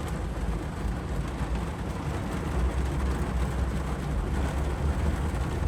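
Low, steady rumble of a semi truck running, the engine and road drone heard from inside the cab.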